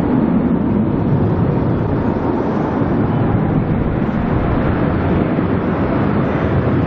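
Steady rumble of a twin-engine Boeing 777 airliner's jet engines during its landing, heavy in the low end and even throughout.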